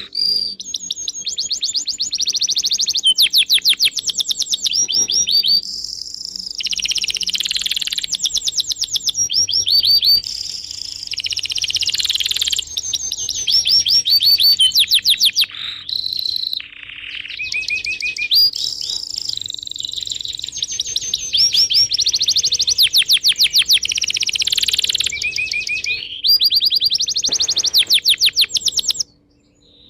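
Small birds singing in fast, high-pitched trills and chirps, one rapid phrase after another, with sudden breaks where the song cuts off and starts again.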